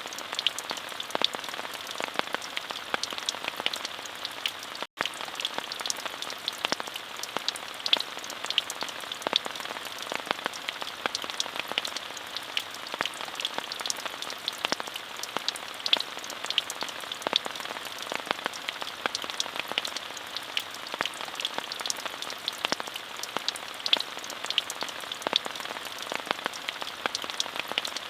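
Steady rainfall: an even hiss with many individual drops ticking sharply on a surface. The sound cuts out for an instant about five seconds in.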